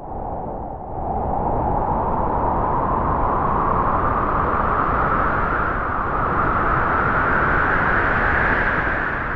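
Wind gusting steadily, a breathy whistle that rises slowly in pitch over a deep rumble.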